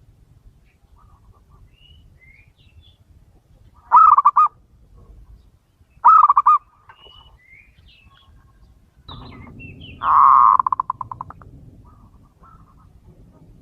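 Male zebra dove cooing: two short stuttering coos about four and six seconds in, then a longer coo around ten seconds that breaks into fading rapid pulses. Faint short chirps of other small birds sound between the coos.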